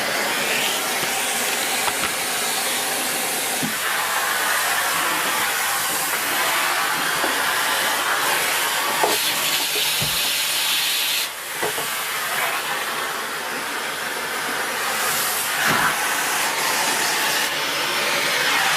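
Vacuum cleaner running steadily with a loud rushing hiss of air, its sound shifting as the cleaner head is moved over the floor, with a brief dip about eleven seconds in.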